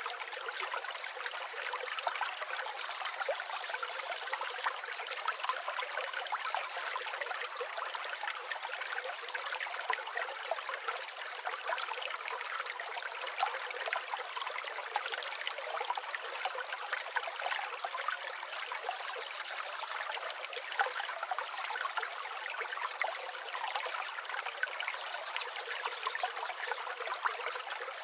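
River water flowing steadily, full of small trickles and splashes.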